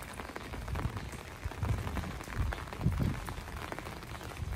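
Rain falling, with many single drops clicking close by over a steady hiss. Low, irregular thumps come a few times a second underneath.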